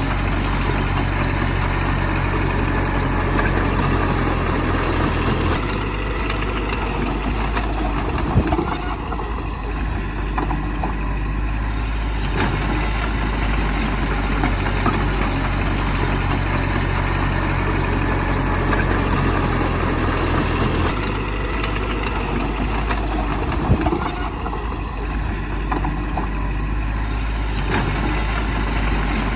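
Bulldozer's heavy diesel engine running steadily, its note shifting about six seconds in and again about twenty-one seconds in, with a short clank about eight seconds in and another near twenty-four seconds.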